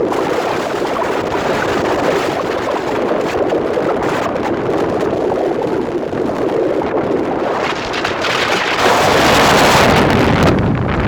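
Wind rushing over the microphone and the road noise of a moving vehicle on a wet road, a steady wash that swells louder about nine seconds in.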